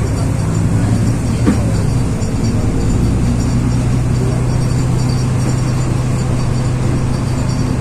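LiAZ-6213 articulated city bus heard from inside the cabin while under way: a steady engine drone with road and running noise. There is a single short click about a second and a half in.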